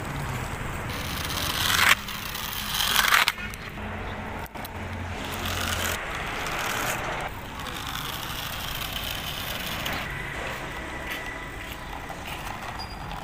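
Small rubber toy trucks and cars rolling and scraping down a steep, rough road surface, with two short rising swells that cut off sharply about two and three seconds in.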